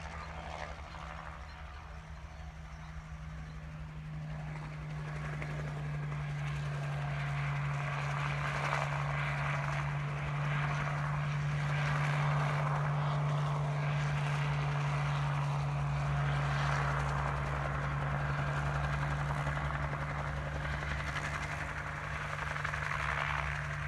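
Crop-dusting helicopter running steadily, with a low steady hum under a rushing noise that grows louder over the first several seconds and then holds.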